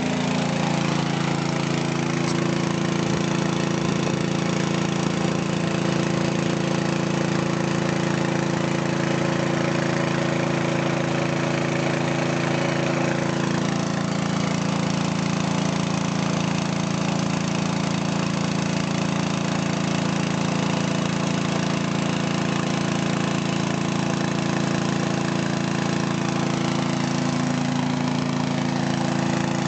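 Two-cylinder diesel engine of a well-drilling rig's hydraulic power pack running steadily. Its tone shifts slightly about thirteen seconds in.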